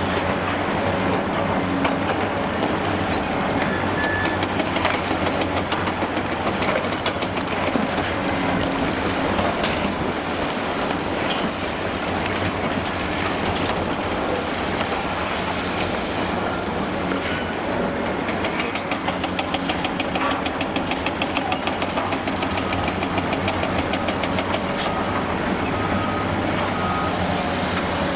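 Large diesel demolition excavator running steadily under load, with a continuous clatter of knocks and crunches from the demolition work.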